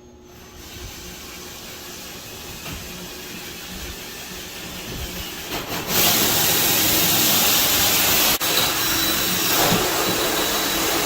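An electric power tool running with a loud, steady rushing hiss that slowly builds, jumps much louder about six seconds in and holds, with a brief break just after eight seconds.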